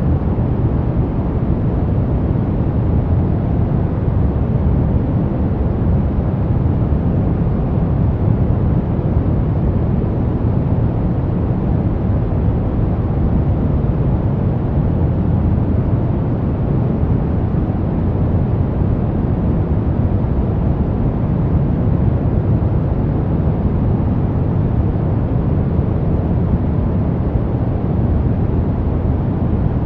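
Brown noise: a steady, deep rumbling hiss with no changes, its energy heaviest in the bass and falling away toward the treble.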